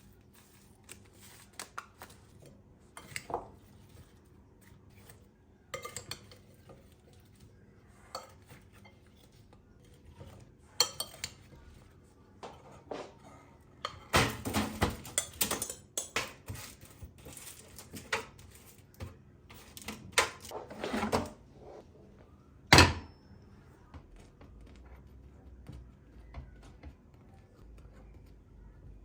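Kitchen dishes and cutlery being handled, with scattered clinks and knocks. A dense spell of clattering comes about halfway through, and a single sharp knock, the loudest, comes about three quarters of the way through.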